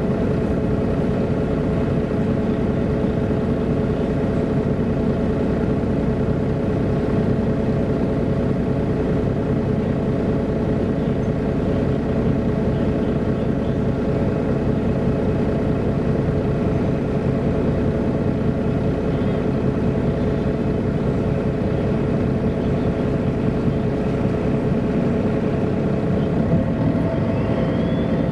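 MAN A23 NG313 articulated city bus under way: a steady engine and drivetrain rumble with a constant whine. Near the end the whine drops out and a high tone rises and then holds.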